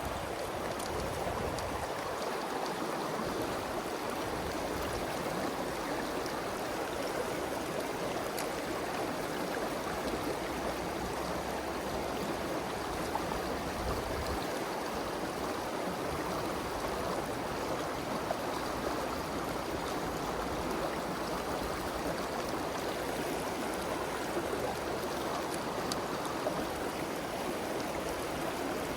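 A mountain stream's water rushing steadily over rocks.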